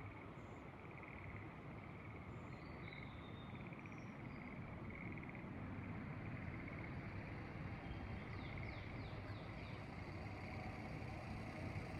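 Frogs in the rice paddies trilling in short repeated pulses, with scattered bird chirps and, about nine seconds in, a quick run of falling bird notes. Under them is a low steady rumble that grows louder toward the end.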